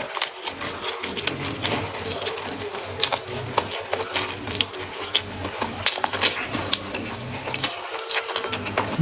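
Close-up eating sounds: chewing and crunching on raw vegetables, with many short, irregular crunches over a steady low hum.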